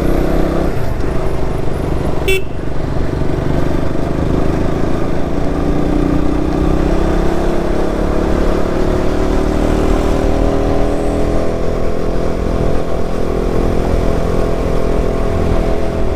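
Motorcycle engine running on the move, its pitch climbing slowly through the middle as the bike speeds up, over a steady wind rumble on the microphone.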